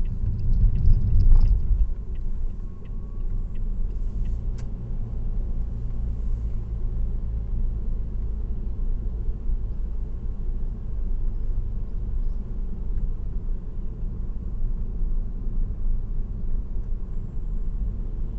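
Steady low road rumble of a car driving at expressway speed, tyre and engine noise, louder for the first two seconds, with a few faint clicks.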